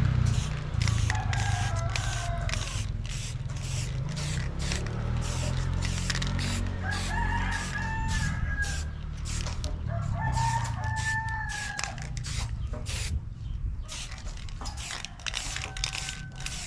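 A rooster crowing several times, each crow a long pitched call lasting a second or two, over a quick run of sharp clicks or knocks and a low steady rumble.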